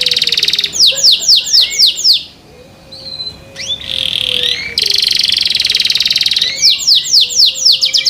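Domestic canary singing: fast, buzzy trills alternating with runs of quick downward-sweeping whistled notes, about five a second. There is a short lull near the middle.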